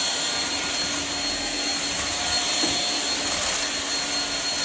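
Shark HV302 Rocket corded stick vacuum running steadily as it vacuums spilled oatmeal and sugar off the floor: a constant rush of air with a thin, steady high whine over it.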